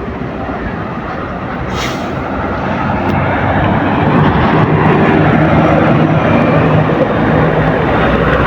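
Engine noise from large vehicles in slow traffic, growing louder from about four seconds in as one passes close, with a short hiss about two seconds in.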